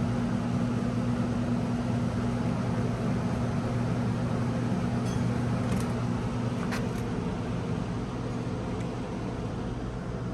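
Steady low drone of a car driving, engine and road noise humming evenly, with a few faint clicks about halfway through.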